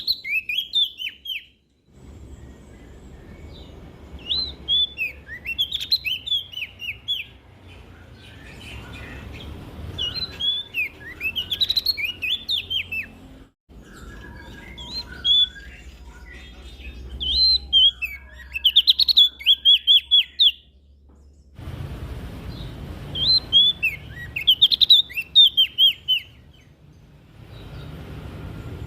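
A prenjak daun, a small songbird, singing bursts of quick, high chirping phrases. A new phrase comes every few seconds over a low background rumble.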